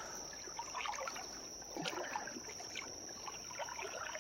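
Shallow creek water splashing and trickling in small irregular bursts, with a steady high-pitched whine behind it.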